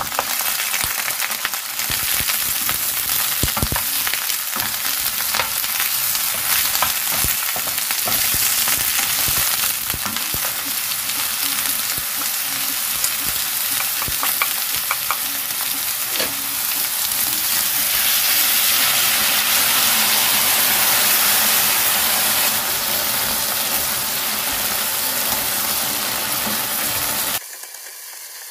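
Tofu, button mushrooms and shishito peppers sizzling in hot oil in a frying pan, with a wooden spatula knocking and scraping as they are stir-fried. The sizzle turns louder and denser a little past the middle, as the seasoning sauce is poured around the hot edge of the pan, then cuts off abruptly near the end.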